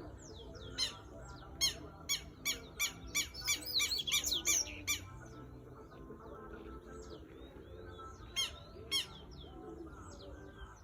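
Double-collared seedeater (coleiro) singing: a fast run of loud, sharp, repeated notes lasting about four seconds, then two more loud notes near the end. Softer falling chirps continue throughout.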